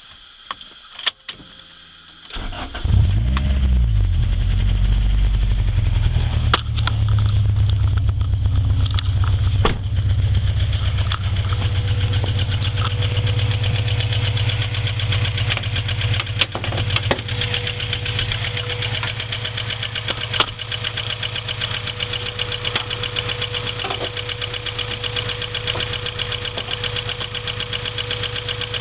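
A few clicks, then a Honda B20Z four-cylinder engine starts about two seconds in, revs briefly and settles to a steady idle with a fast, even ticking that keeps time with the engine. The cause of the tick is unknown to the owner.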